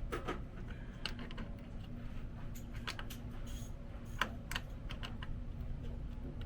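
Irregular sharp clicks and taps of hand tools and metal parts being worked on a truck's starter and battery hardware, about a dozen spread unevenly over several seconds.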